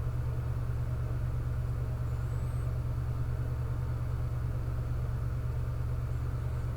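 Steady low rumble of constant background hum, unchanging throughout.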